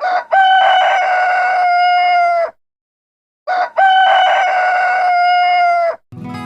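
A rooster crowing twice: each crow is a short note followed by a long held call that drops in pitch at the end, with about a second of silence between. The two crows are identical, the same recorded crow played twice.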